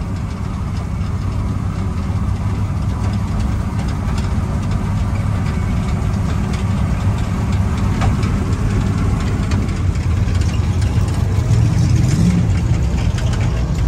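Car engine running at low speed: a steady low rumble that grows a little louder about twelve seconds in.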